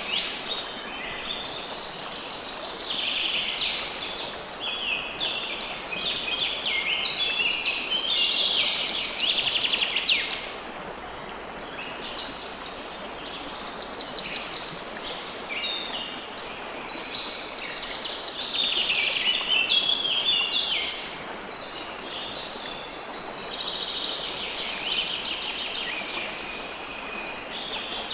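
River water flowing steadily, with songbirds singing over it in long phrases of rapid trilled notes, each lasting a few seconds with short gaps between.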